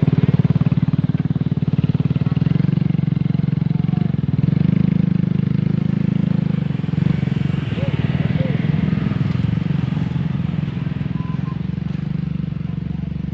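Diesel engine of a heavy road-building machine running steadily under load, with a low, even, throbbing firing rhythm.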